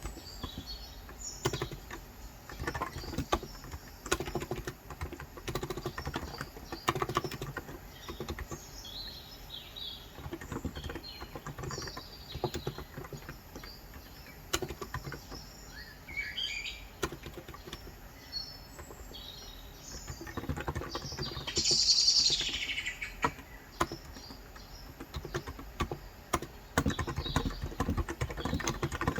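Typing in bursts on a Cox Endeavor electro-capacitive (Topre-style, 35 g) tenkeyless keyboard, its keys giving soft, muffled thocks. Wild birds chirp throughout, with one louder call about three quarters of the way in that falls in pitch.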